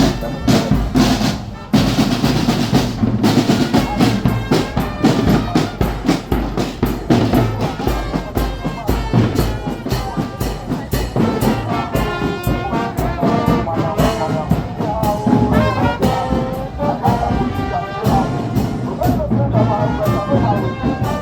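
Brass band music: trumpets and trombones playing a tune over a steady drumbeat.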